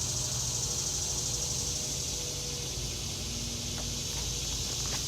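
Steady chorus of insects, a high, even buzz, over a low background rumble.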